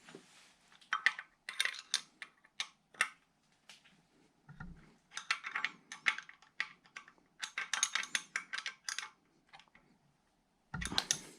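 Hand tools clicking and clinking on small engine bolts as they are snugged down by hand, in irregular bursts of sharp metallic clicks. A low knock comes about halfway through and another near the end.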